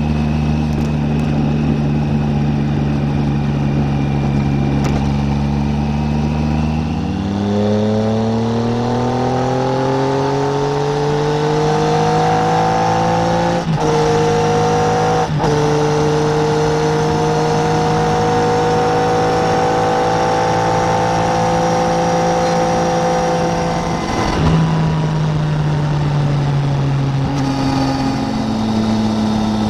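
Triumph Tiger 800 three-cylinder motorcycle engine running steady, then pulling away with rising revs, with two quick gear changes about halfway through. It holds a steady cruise, then eases off with falling revs near the end, with wind noise throughout.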